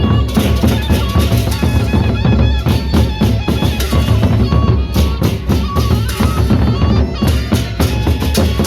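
Loud live procession music: a fast, dense drum beat with bass drum and snare under a high held melody line.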